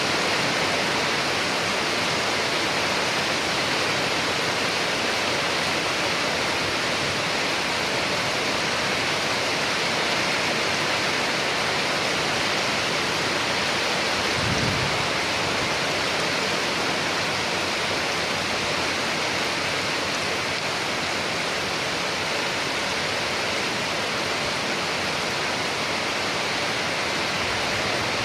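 Steady heavy rainfall, an even hiss with no breaks. A brief low thump sounds about halfway through.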